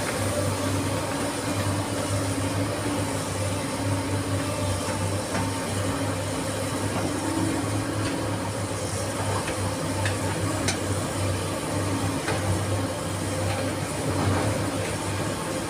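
SANY SY215C excavator's diesel engine running steadily, with a few sharp clicks or knocks in the second half.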